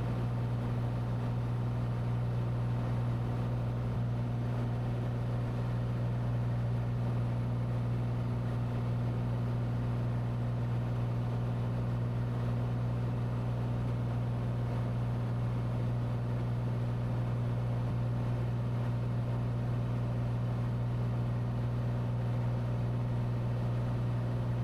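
Cessna 182T's six-cylinder Lycoming IO-540 engine and propeller droning steadily in the cabin during the climb after takeoff.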